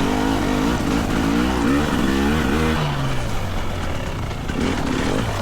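GasGas EC300's 300 cc single-cylinder two-stroke engine revving up and down quickly under throttle, then the revs falling away about three seconds in and running lower for the rest.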